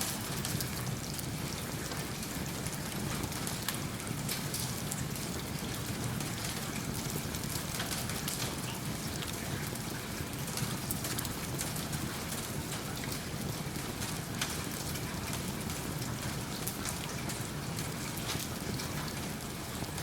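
Steady rain with fine patter, over a low rumble and small crackles from a wood fire in a fireplace.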